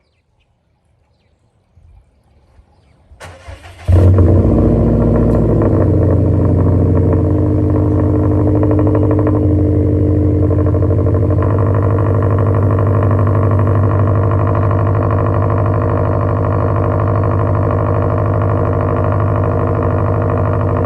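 2020 Subaru WRX STI's turbocharged 2.5-litre flat-four with an AWE Track exhaust, cold-starting: a few faint clicks, a brief crank about three seconds in, the engine catching loudly just before four seconds, then settling into a steady fast cold idle.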